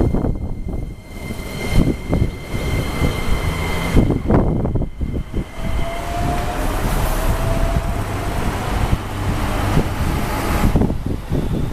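Keihan 10000-series electric train departing. Its VVVF inverter whines in a faint tone that rises slowly as the train speeds up, over a steady low rumble with several thumps.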